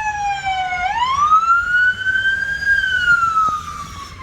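Siren wailing. Its pitch falls slowly, sweeps up quickly about a second in, then slides slowly back down and fades near the end.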